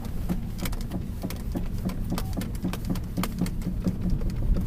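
Lada Vesta rolling slowly, with a steady low road and cabin rumble and many irregular sharp light knocks as the steering is turned left and right. The owner takes the knocking for a fault in the front suspension.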